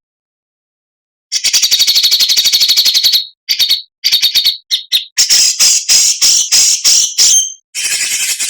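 Songbird giving harsh, rasping 'besetan' calls as used in Indonesian cage-bird training recordings. After a short silence comes a fast rattling trill of about a dozen notes a second, then short choppy phrases and a run of loud rasping notes, ending in a dense harsh burst.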